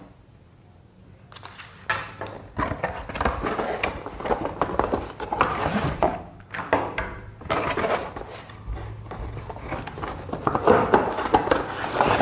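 Irregular clicks, knocks and rustling as the parts of a flat-packed washing machine trolley and their packaging are handled and set down, after a quiet first second or so.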